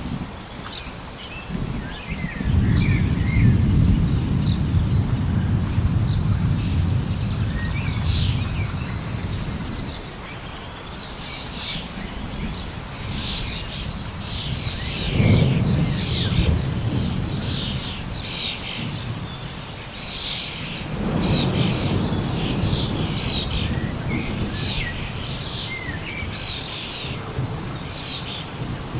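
Many small birds chirping and calling throughout, over low rumbles that swell up about two seconds in, again briefly around the middle, and once more later on.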